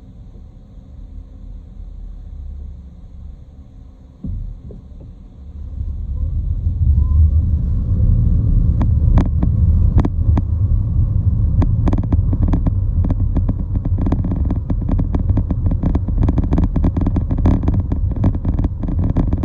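Road traffic or vehicle noise: a low rumble that grows much louder about six seconds in, with repeated sharp knocks and rattles over it from about nine seconds on.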